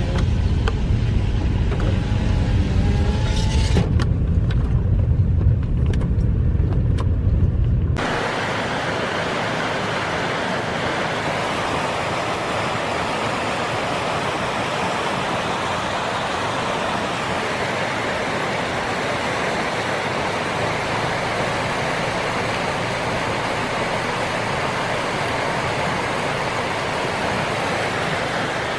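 A car's low, steady rumble that cuts off abruptly about eight seconds in, giving way to the steady rush of a rain-swollen creek running high after heavy rain.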